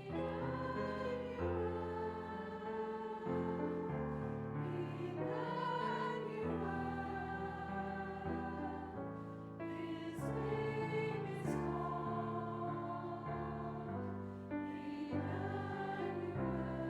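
Choir singing a slow piece in held chords, with instrumental accompaniment underneath.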